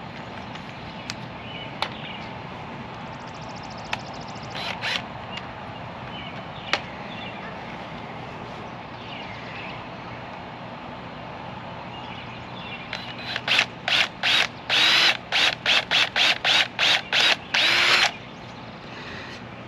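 Power drill boring through three stacked sheet-metal downspout straps, run in about a dozen short on-off trigger bursts over the last third. Before that there are only a few light clicks and one brief blip of the drill.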